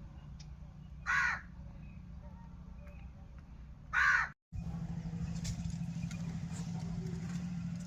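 Two short, harsh bird calls about three seconds apart, over a steady low hum. The sound cuts out briefly after the second call, and the hum is louder after that.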